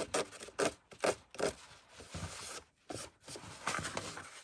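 Paper journal pages being roughed up: a series of short scraping strokes across the page edges, about one every half second, with a longer scrape near the middle. This distresses the paper so it holds distress ink better and looks grungier.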